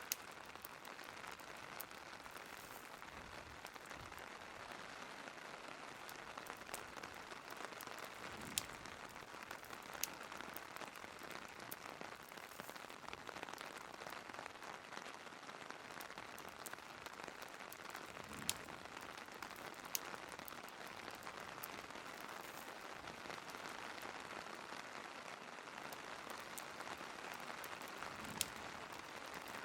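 Steady rain falling, with a few sharp pops from a crackling wood fire scattered every several seconds.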